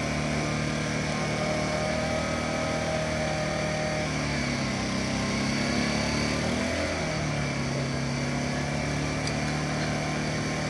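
A fire truck's engine running steadily. Its pitch drops about four and a half seconds in and climbs back up about two seconds later.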